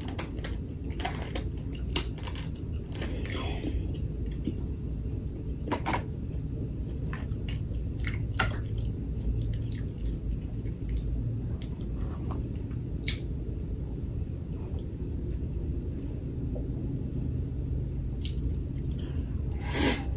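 Close-up chewing and biting of food, with irregular small wet clicks and smacks, over a steady low hum.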